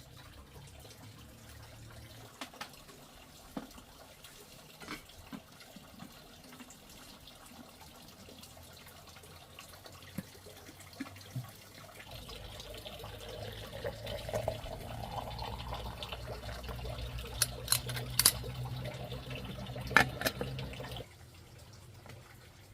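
Water pouring into a container, with scattered knocks at first. About halfway through the flow gets louder and its pitch rises as the vessel fills. It stops suddenly shortly before the end.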